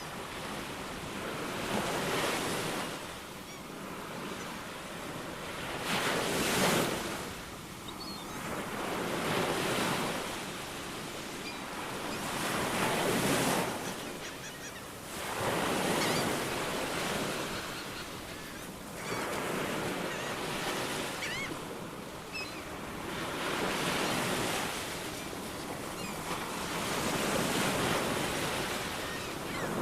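Ocean waves breaking and washing up the shore, the surf swelling and ebbing every three to four seconds, with a few faint bird chirps.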